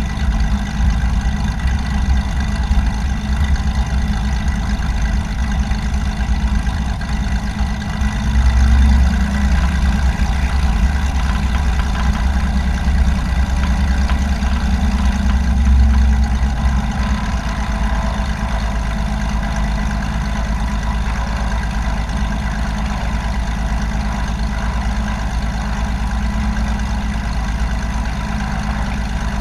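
Light aircraft's piston engine droning steadily. The low end swells for several seconds around the middle, then evens out.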